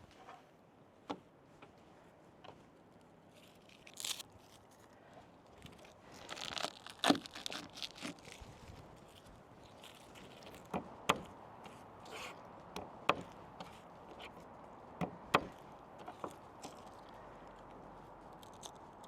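Scattered sharp clicks and knocks with scrapes, and a rustling, tearing stretch about six to eight seconds in, from food and utensils being handled. A faint steady hiss comes up near the end.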